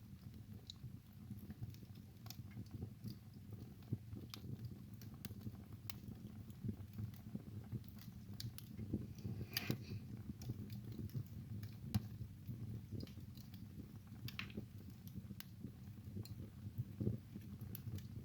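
Wood fire burning in a fireplace: a low steady rumble of the flames with irregular crackles and snaps, a few louder pops among them.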